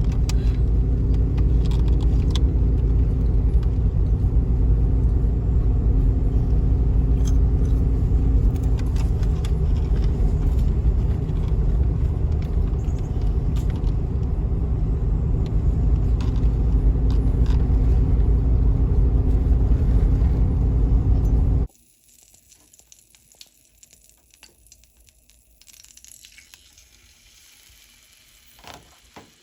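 Steady low rumble of a car's road noise heard from inside the moving car, cutting off suddenly about three-quarters of the way through; faint, quiet sounds follow.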